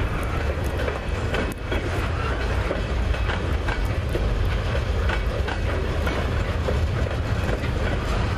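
Freight train flatcars loaded with steel pipe rolling past close by: a steady rumble of wheels on rail, with irregular sharp clicks as the wheels cross rail joints.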